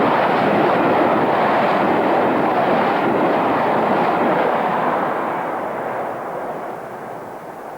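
A Great Western King-class four-cylinder 4-6-0 steam locomotive working, a loud, steady rushing noise that fades away from about five seconds in.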